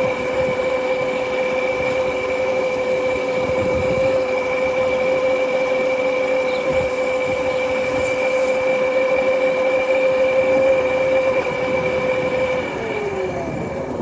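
Motorcycle riding at a steady speed, its motor giving a steady high whine that falls in pitch as the bike slows near the end.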